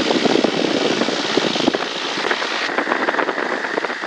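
Cessna 172's 180-horsepower engine running at low taxi power, heard as a steady rushing noise of propeller wash and wind coming through the open cabin door.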